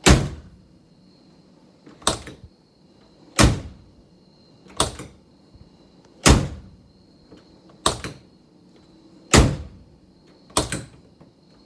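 The door of a 1968 Saab 95 is shut eight times in a row, one solid slam about every second and a half. The door has just been repaired, and the shutting shows that its rattle is gone.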